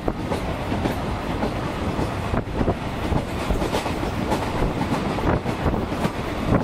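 Running noise of a loco-hauled passenger train heard from aboard at speed: a steady rumble and rattle of the coach, with the wheels clicking irregularly over rail joints.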